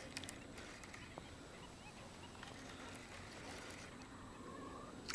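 Quiet open-air background with faint distant bird calls, a few short chirps in the middle, and a few small clicks, the sharpest near the end.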